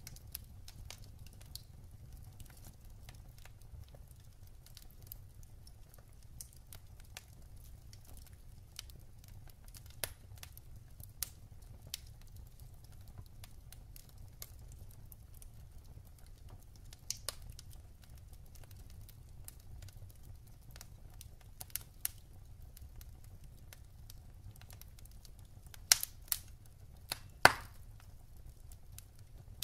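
Wood fire burning in a fireplace: a low steady rumble of the flames with scattered crackles and sharp pops from the burning logs, a few louder snaps near the end.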